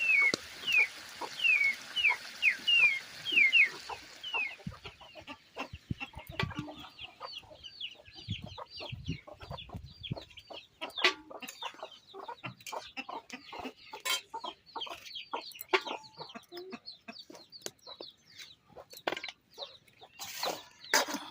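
Domestic chickens clucking and chicks peeping: repeated short falling chirps about twice a second for the first few seconds, then a busier run of quick chirps mixed with small clicks.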